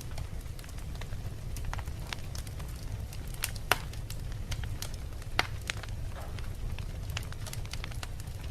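Wood fire burning in a fireplace: a steady low rumble of the flames with irregular crackles and pops from the logs, two pops louder than the rest, one a little before the middle and one a couple of seconds later.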